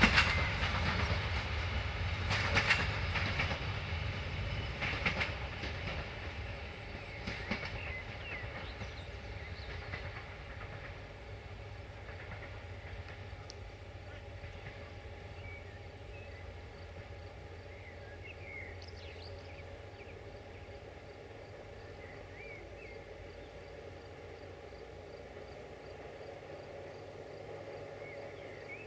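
Diesel train pulling away, its wheels clicking over rail joints every couple of seconds at first, then its engine rumble fading steadily into the distance. A few bird chirps come in near the end.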